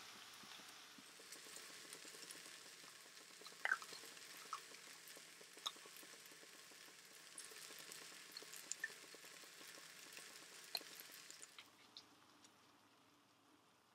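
Faint sizzling of diced onion and tomato frying in a nonstick pan, with scattered small pops and clicks; it fades out near the end.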